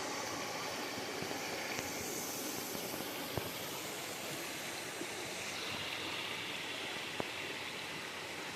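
River water flowing over rocks, a steady rush, with two brief sharp clicks a few seconds apart.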